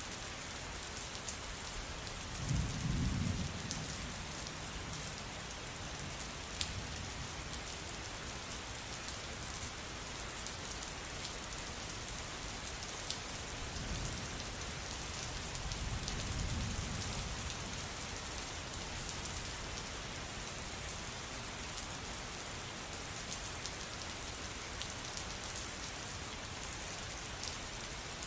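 Steady rain falling, with scattered louder drops ticking through it. Two low rumbles of thunder rise out of it, a short one a few seconds in and a longer, softer one about halfway through.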